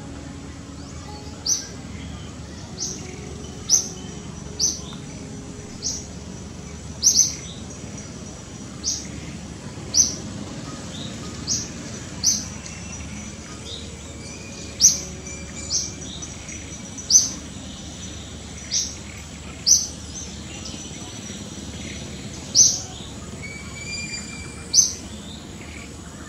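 A bird calling with short, high chirps, repeated irregularly about once every one to two seconds over a steady background hiss.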